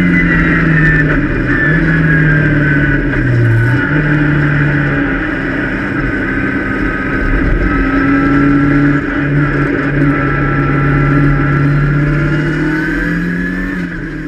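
Race car engine heard from inside its caged cabin, pulling hard on a circuit, its pitch dipping and climbing again several times with gear changes and lifts, over road and wind noise. It fades out near the end.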